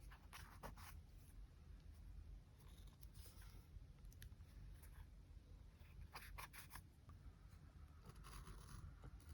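Faint paper handling for a journal collage: short crisp crinkles and scrapes of paper and stickers, in small clusters about half a second in and again about six seconds in, over a low steady hum.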